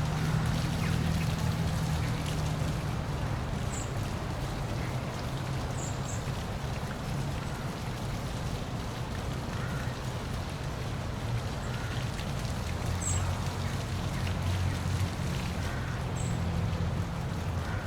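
Waterfall running steadily in an even rush of falling water, with a low steady rumble underneath. Four brief high bird chirps sound over it, a few seconds apart.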